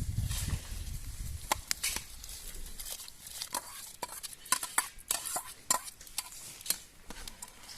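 A series of irregular sharp clicks and knocks of hard objects, with a low rumble in the first second.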